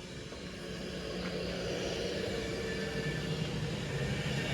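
Class 390 Pendolino electric train pulling away, its traction motors giving a steady whine over a rolling rumble that grows gradually louder.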